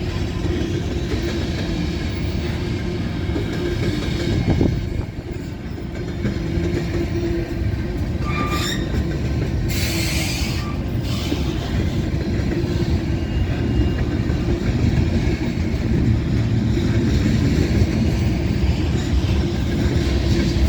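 Freight cars of a Union Pacific manifest train rolling past, a steady rumble of wheels on rail. A short rising wheel squeal comes about eight and a half seconds in, followed by a brief hiss.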